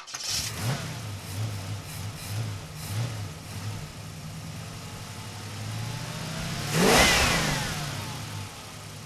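Car engines running with a low, pulsing rumble. About seven seconds in, one car passes close by: its engine note rises, peaks, then drops in pitch as it moves away.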